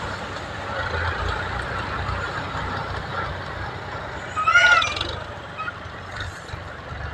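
A steady low engine rumble, with one short, loud, high call that rises and falls in pitch about four and a half seconds in.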